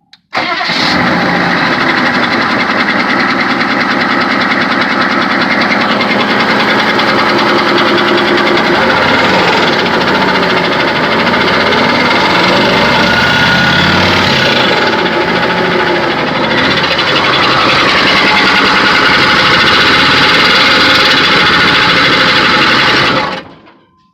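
GM 6.5-litre turbo-diesel V8 running, with the squeal and knocking noise that has just appeared on this high-mileage engine (about 300,000 miles), cause unknown to the owner. The engine note shifts up and down partway through.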